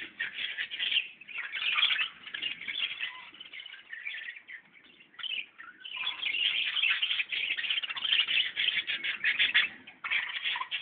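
Many birds chirping and calling at once in a dense, busy chorus, easing off briefly about halfway through before picking up again.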